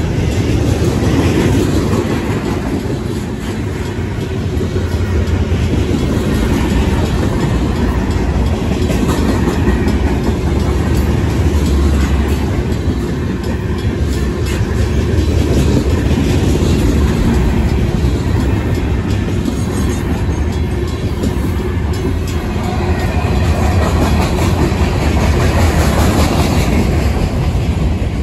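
Cars of a Union Pacific mixed freight train rolling past at the crossing: a loud, steady rumble of steel wheels on the rails.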